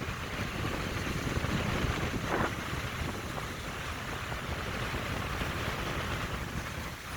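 Strong gusting wind, about 20 miles an hour, buffeting the microphone with a steady low rumble and hiss.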